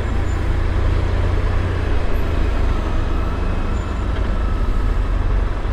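BMW R1150RT's boxer-twin engine running steadily at low speed, a low rumble under an even rush of road and traffic noise.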